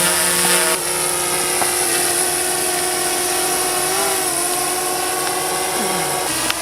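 Quadcopter drone's propellers and motors whining steadily, a stack of tones that shifts in pitch about a second in and wavers briefly around the middle as the drone changes speed.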